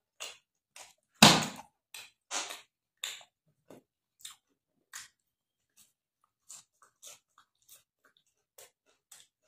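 Close-up chewing of a hand-fed mouthful of rice and curry, then of fresh coriander sprigs: short wet, crunchy chews about two a second, the loudest a little after a second in and fainter towards the end.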